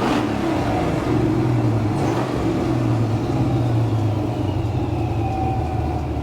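Supercharged LSX V8 of a 1991 GMC Syclone pickup running steadily, heard from inside the cab, with a faint whine that dips slightly in pitch near the end.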